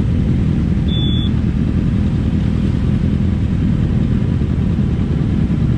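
Steady low rumble of motorcycles running, with a brief high beep about a second in.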